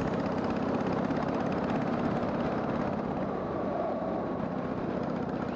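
Harley-Davidson Sportster 883's air-cooled V-twin engine running steadily while riding, under a steady hiss of wind and road noise.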